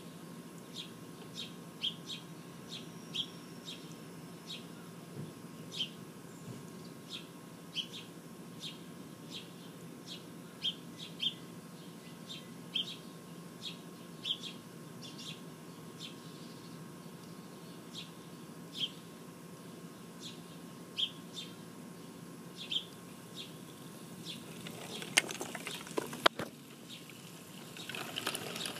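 A songbird chirping outdoors, one short high chirp about every second, repeated over and over. A few sharp clicks come about 25 seconds in, and a rushing noise starts just at the end.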